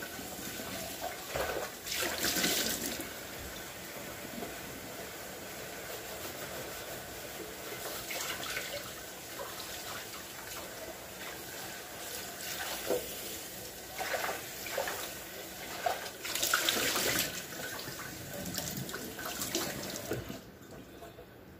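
Kitchen tap running into a sink, with splashing as things are washed under the stream; it gushes louder about two seconds in and again near the end, then the water shuts off.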